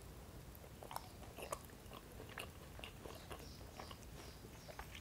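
Faint mouth sounds of biting into and chewing a sushi-style çiğ köfte roll wrapped in flatbread, with scattered small wet clicks.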